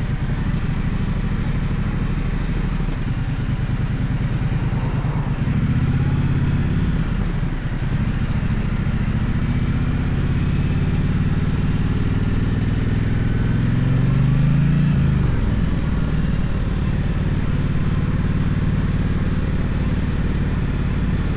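Gaokin GK1200 motorcycle engine running under way, its revs rising and falling with the throttle. One long climb in pitch peaks about fifteen seconds in, then the revs drop sharply.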